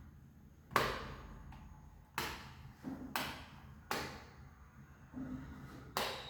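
Wall light switch clicked five times at uneven intervals, each a sharp short click, as the chandelier is switched on and off.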